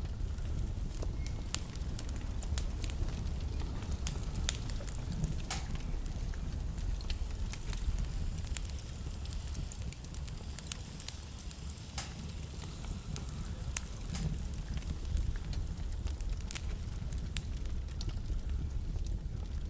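Wood fire burning in a fireplace: a steady low rumble of the flames with frequent sharp crackles and pops from the logs, a few louder pops about five and twelve seconds in.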